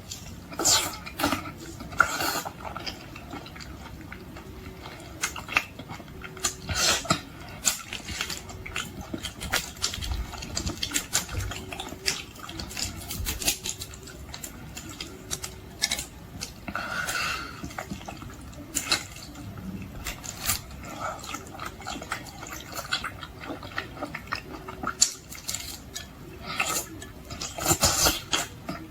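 Close-miked eating of boiled shrimp: wet chewing and lip smacks, with sharp clicks at irregular intervals.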